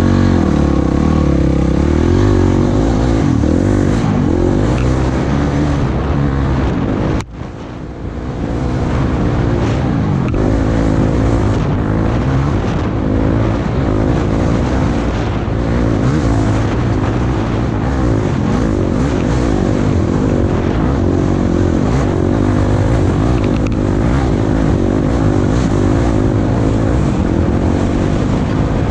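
Off-road vehicle engine running under changing throttle while riding a dirt trail, its pitch rising and falling; the sound drops off sharply about seven seconds in for about a second, then picks up again.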